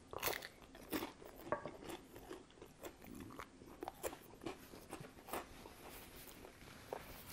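Close-miked chewing of a bite of pizza: irregular crunching chews and short mouth clicks, a few every second.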